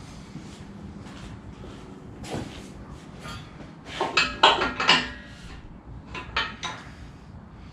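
Metal tools and engine parts clanking and clattering as they are handled, with a loud cluster of ringing clanks about four to five seconds in and a few lighter knocks before and after.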